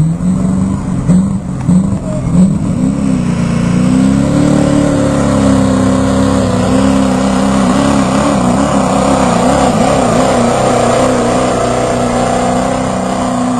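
Pulling truck's engine under full throttle: a few short uneven revs in the first couple of seconds, then the pitch climbs and holds steady at high revs as the truck pulls.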